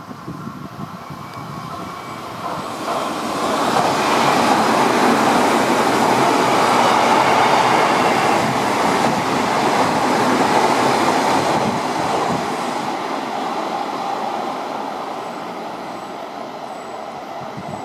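Odakyu 3000-series electric train passing through a station at high speed without stopping. Its rumble and wheel-on-rail noise build over the first few seconds, stay loud for several seconds as the cars rush past close by, then fade away as it recedes.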